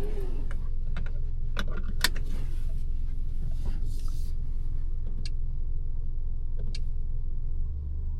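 Steady low engine and road rumble inside a Mercedes-Benz C-Class (W206) while it is being driven. A few sharp clicks and ticks come in the first half. Near the end the rumble settles into a steadier low hum.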